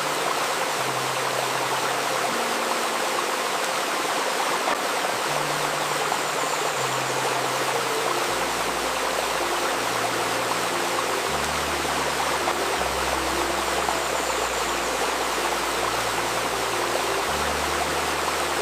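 Steady babbling of a clear river stream, mixed with soft, slow ambient music of sustained low tones billed as 528 Hz solfeggio healing music; deeper bass notes join about eight seconds in.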